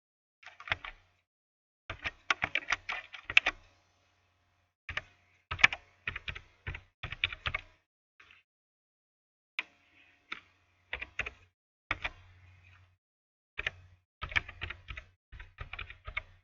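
Typing on a computer keyboard: quick runs of key clicks in several bursts with short pauses between them, as an email address and form details are entered.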